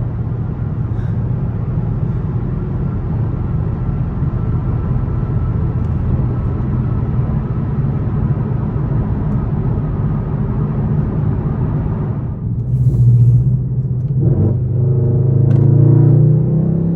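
Straight-piped Infiniti M56's 5.6-litre V8 exhaust droning steadily under way, with road noise. About twelve seconds in the road noise falls away and the engine is revved twice, the second a longer rising pull that then drops off.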